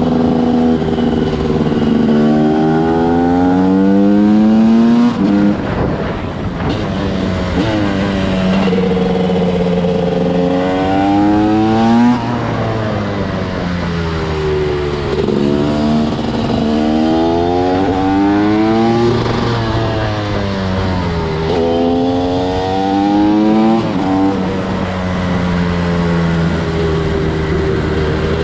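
TM SMR 300 two-stroke single-cylinder supermoto engine under way, revving up through the gears and dropping back again and again, its pitch climbing and falling several times as the bike accelerates and slows.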